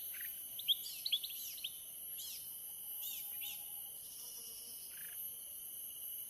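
Small birds chirping: a quick run of short, sharp chirps in the first few seconds, then a few scattered ones, over a steady high-pitched hiss.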